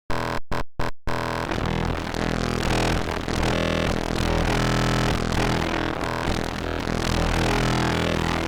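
Serum wavetable synthesizer patch playing a dense, gritty electronic tone: three short stabs in the first second, then a held note with many layered pitches.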